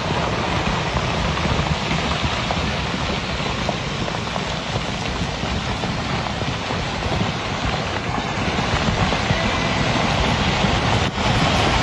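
Steady loud rushing noise with a rumbling, buffeting low end, like wind or a vehicle heard on the microphone.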